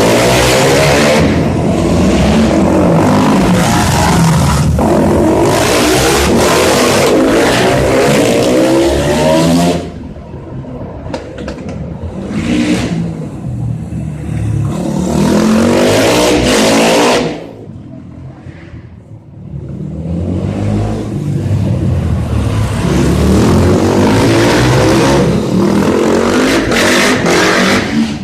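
250 cc motorcycle engines revving hard, the pitch climbing and falling again and again as the throttle opens and closes. The sound drops away about ten seconds in and again around seventeen seconds in, then builds back up to full revs.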